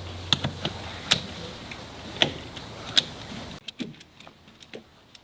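A series of sharp clicks and knocks, a few louder ones about a second apart, over the fading tail of music that cuts off about three and a half seconds in.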